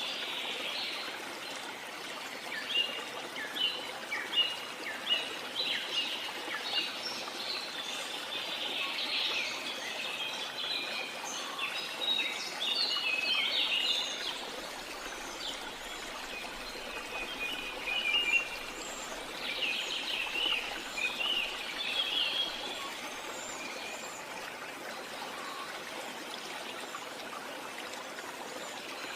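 Many birds chirping and calling in quick short notes over a steady rush of falling water. The birdsong is busiest in the first two thirds and thins out near the end, leaving mostly the water.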